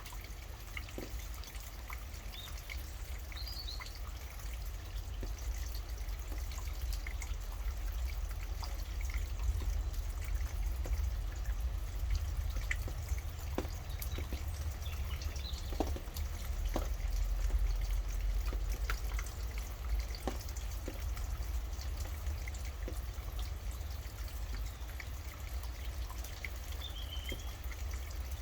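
Steady rain, with drops dripping and pattering in scattered clicks over a low rumble. A bird gives a short high chirp three times: a few seconds in, about halfway, and near the end.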